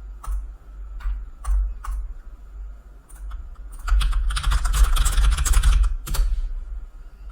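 Computer keyboard typing: a few scattered single keystrokes, then a fast run of typing for about two seconds past the middle, ending with one more click.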